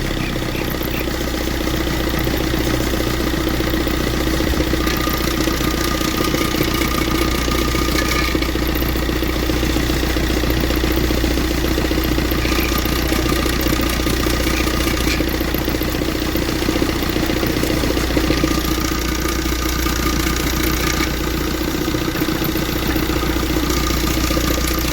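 Maruti Swift engine idling steadily after a start, run so that its timing chain can be listened to for noise.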